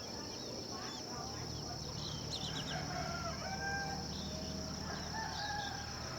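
A rooster crowing from about two and a half seconds in, in long drawn-out notes, over a steady high-pitched insect drone, with a few short high bird chirps.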